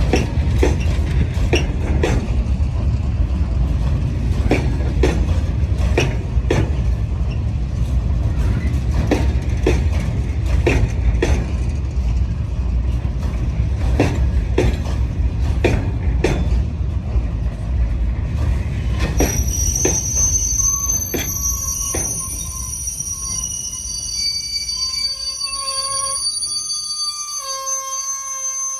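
A train running past on the rails: a heavy rumble with wheels clicking over the rail joints. About two-thirds of the way in, the rumble fades and high, multi-toned metallic squealing from the wheels takes over, with one lower squeal wavering near the end.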